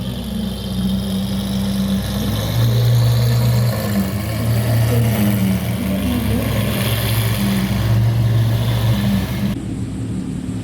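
Modified cars' exhausts running at low revs: a steady low drone that shifts a little in pitch. The sound changes abruptly near the end.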